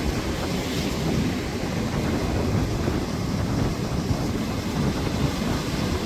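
Storm wind buffeting the microphone over surf and rain on a seashore: a steady low rumble with a hiss above it.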